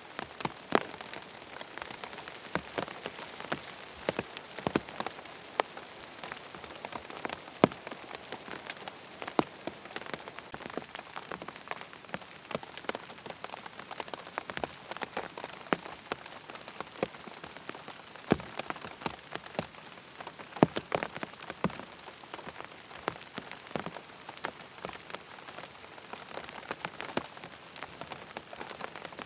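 Steady rain, with many sharp, close drops striking a surface at irregular moments over it.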